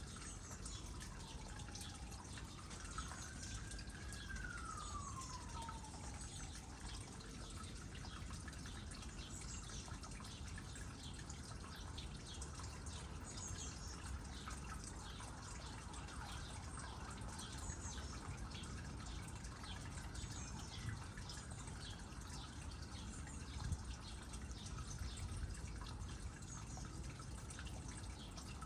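Water steadily trickling and dripping into a small pond. In the first six seconds a distant siren rises and falls once.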